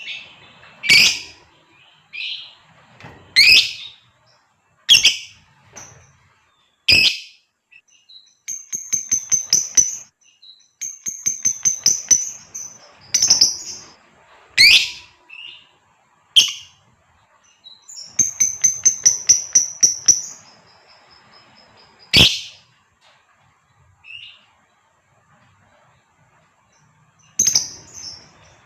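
Female lovebird calling: loud, sharp single shrieks every few seconds, with three runs of rapid, high chattering notes, each run lasting a second or two.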